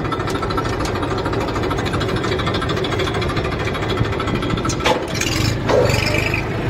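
Massey Ferguson tractor's diesel engine idling steadily, with two short knocks near the end.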